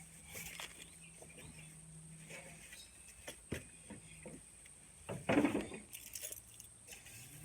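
Scattered light clicks and knocks, with a louder scraping rustle about five seconds in, over a faint steady hum.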